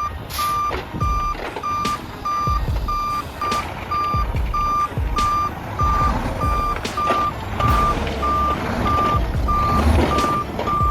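Truck's reversing alarm beeping steadily at one pitch, about two beeps a second, over the low rumble of its running engine, with a few sharp clicks.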